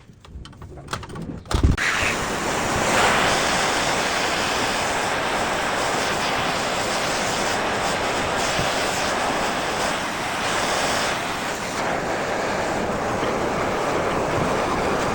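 Handheld gas soldering torch lit with a sharp click about a second and a half in, then burning with a steady, loud hissing rush as it heats a copper pipe fitting for soldering.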